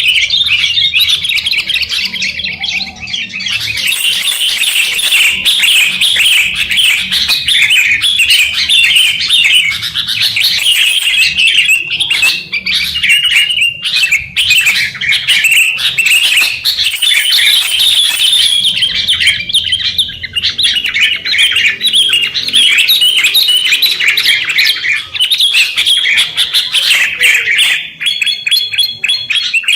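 Wild sooty-headed bulbuls calling busily, a dense, unbroken stream of loud chirps and twittering.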